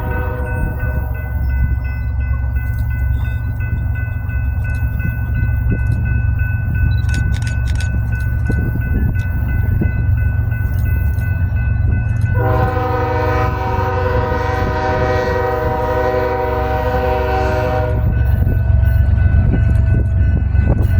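Train passing with a steady low rumble, its locomotive air horn sounding a short end of a blast just at the start and then one long blast of about five and a half seconds from about twelve seconds in.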